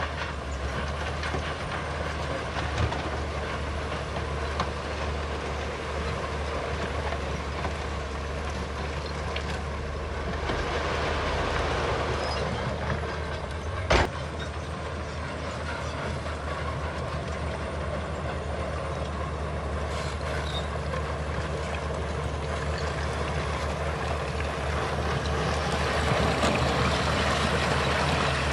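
Heavy earthmoving machinery at work: a steady diesel engine drone with metallic clatter. It grows louder twice, and there is one sharp knock about halfway through.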